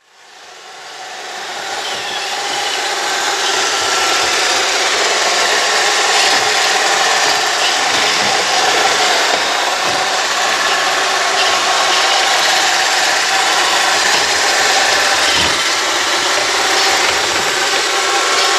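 Robot vacuum cleaner running: a steady whir of its motor with the hiss and rub of its brushes, fading in over the first couple of seconds and then holding level.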